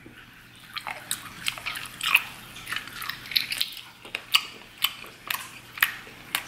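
Close-up wet chewing of a rubbery boiled octopus tentacle, with irregular lip smacks and sticky clicks about once or twice a second.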